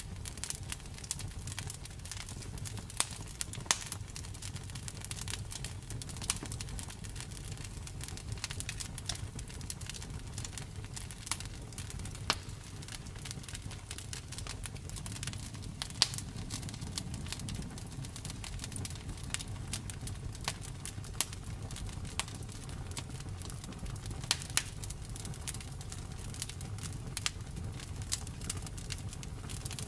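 Fireplace fire crackling, with irregular snaps and a few louder pops over a steady low rumble.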